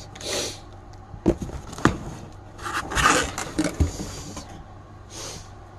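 Bubble wrap and plastic packaging being handled and pulled out of a box: irregular rustling and crinkling bursts with a few sharp clicks.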